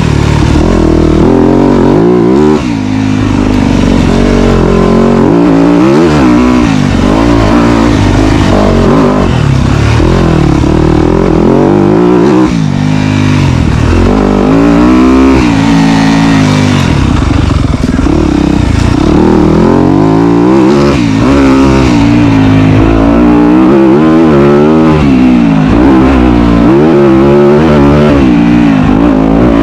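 Dirt bike engine being ridden hard, its pitch rising and falling every second or two as the throttle is opened and rolled off.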